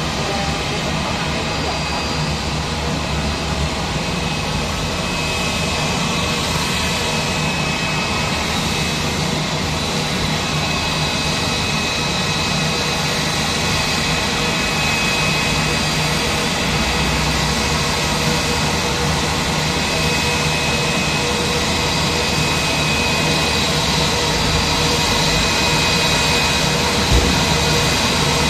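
Airbus A320's jet engines running at taxi power: a steady roar with a high whine, growing slowly louder as the airliner comes in to park.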